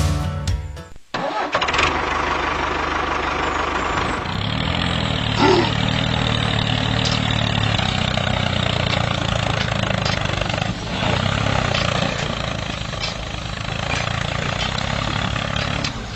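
Background music cuts off about a second in. A small machine motor then runs steadily, most likely the drive of a homemade mini tractor.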